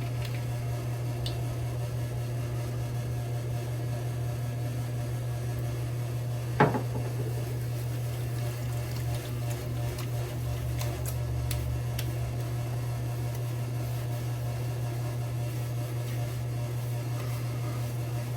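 Steady low electrical hum, with one sharp knock about six and a half seconds in and a few faint light clicks later.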